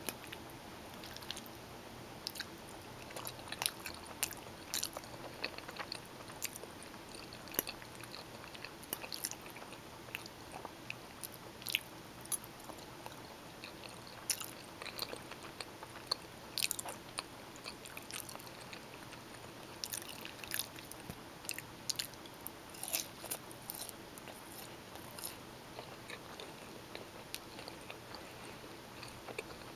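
Close-miked mouth sounds of a person chewing bowtie pasta in tomato sauce with Italian sausage: irregular short clicks coming in clusters, with brief pauses between, over a faint steady hum.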